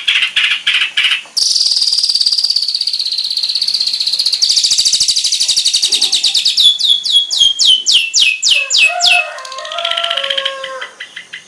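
Long-tailed shrike (cendet) singing a varied song packed with mimicked phrases. It opens with rapid chattering notes, runs into a long high trill, then gives about nine quick downward-sweeping whistles. Lower whistled notes and a fast chatter close it out.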